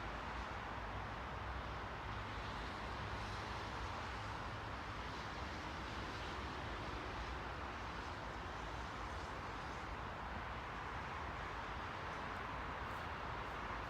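Steady rushing noise, strongest in the middle range, over a constant low hum, with a few faint ticks near the end.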